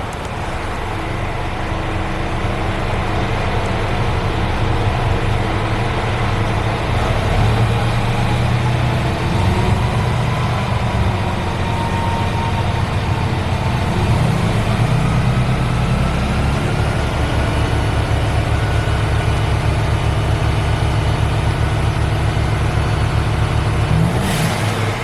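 Mercedes-Benz Actros 1843 truck's straight-six diesel running at idle just after start-up. Its pitch wavers a little at first, then it settles into a steady idle for the second half.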